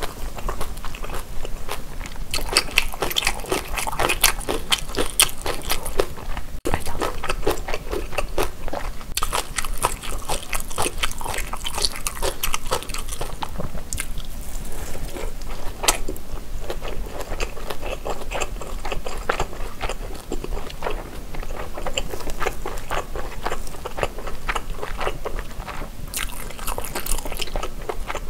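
Close-miked biting and chewing of a large grilled beef tteok-galbi patty, a steady run of small mouth clicks and smacks.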